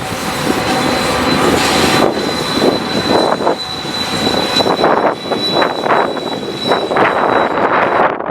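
Strong wind buffeting the camera's built-in microphone in gusts, with a steady high-pitched whine under it that fades out near the end.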